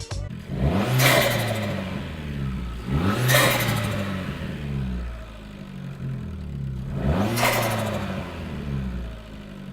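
Abarth 500's turbocharged 1.4 T-Jet four-cylinder engine revving three times, each time with a loud hiss from the blow-off valve venting boost to the open air, the recirculation hose removed.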